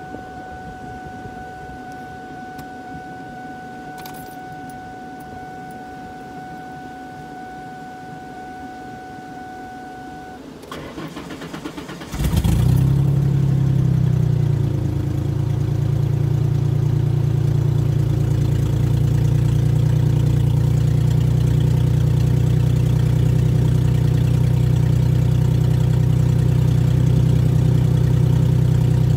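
Car engine cranked by the starter for a second or so, catching about twelve seconds in; it settles from a fast start-up idle within a couple of seconds, then idles steadily.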